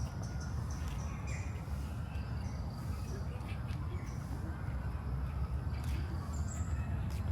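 Park birds giving short scattered chirps and calls over a steady low rumble. A few faint ticks, likely footsteps, come through at intervals.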